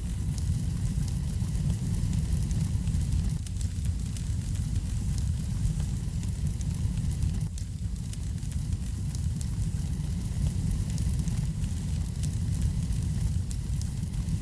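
Fireplace wood fire crackling, with many small quick pops over a steady low rumble.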